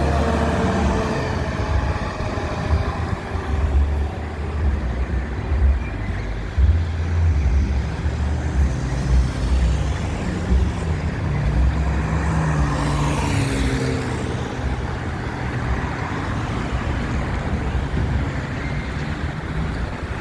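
A fire engine's siren winds down and fades in the first second, then a heavy truck engine runs and revs, its pitch climbing and dropping, over street traffic noise.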